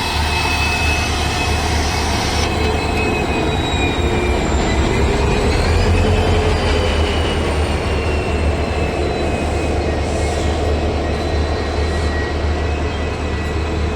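Train running, a steady heavy rumble under several high whining tones; one of the tones glides upward about five seconds in.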